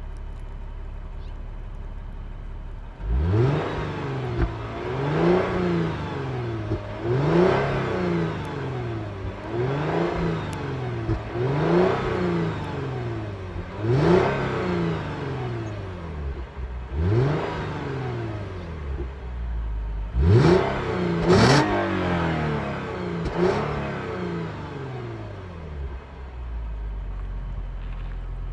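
Lexus GS350 F-Sport's 3.5-litre V6 and exhaust in Sport Plus mode: idling, then revved in about a dozen quick blips roughly every two seconds, each rising and falling in pitch, before settling back to idle near the end. The two sharpest, loudest revs come about two-thirds of the way through.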